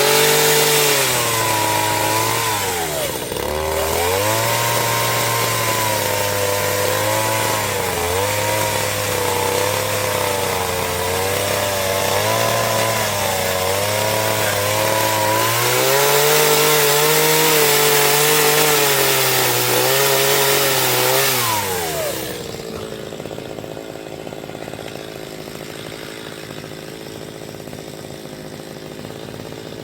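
Chainsaw cutting wood, its pitch sagging and recovering as it works under load, with a brief dip about three seconds in. About twenty-two seconds in it winds down and stops, leaving a quieter background.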